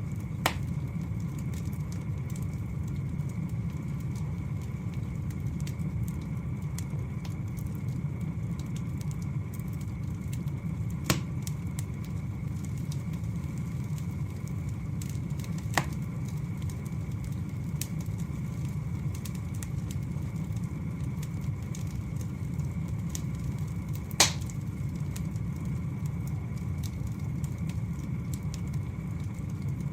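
Wood fire burning with a steady low rush and fine crackling, broken by four sharp pops from the logs spread across the span; the loudest comes late on.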